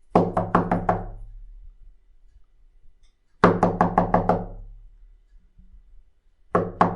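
Rapid knocking on a wooden door in three bursts of quick, even knocks: about five at the start, about six a few seconds later, and another burst beginning near the end.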